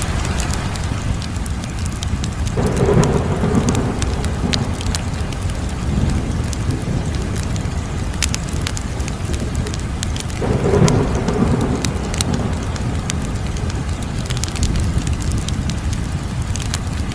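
Wood fire crackling: scattered sharp pops and snaps over a steady low rumble of flame, swelling louder twice, about three and eleven seconds in.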